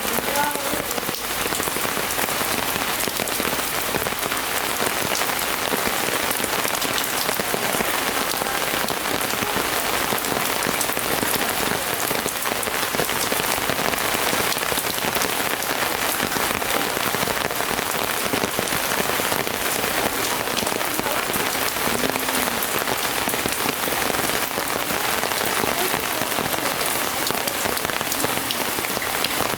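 Rain falling steadily, a dense, even hiss of drops.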